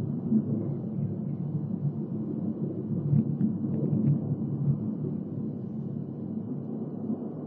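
Jet noise from the Red Arrows' BAE Hawk T1 aircraft: a deep, steady rumble that slowly fades as the jets fly off.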